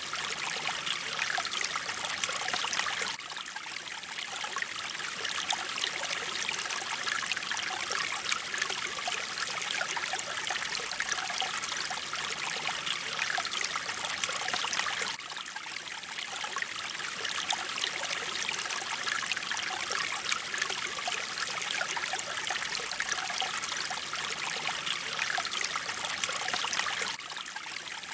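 Mountain stream water flowing and splashing over rocks in a steady, bubbling rush, dipping briefly in level about 3 s, 15 s and 27 s in as the recording loops.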